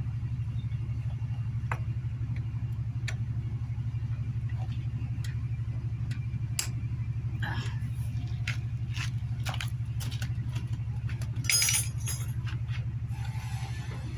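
Metal tools and parts clinking and rattling, scattered light taps that grow busier in the second half, with a louder rattle about eleven and a half seconds in, over a steady low rumble.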